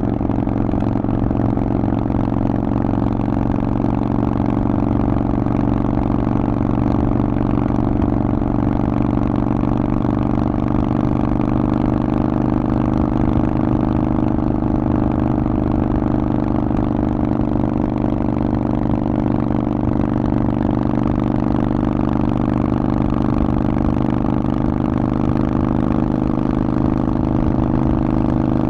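Harley-Davidson Forty-Eight's air-cooled 1200 cc V-twin running at a steady, nearly unchanging engine speed through a Vance & Hines aftermarket exhaust.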